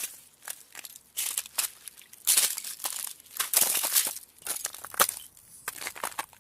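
Ice cracking: irregular bursts of crackling and sharp cracks about every second, with a sharp snap about five seconds in.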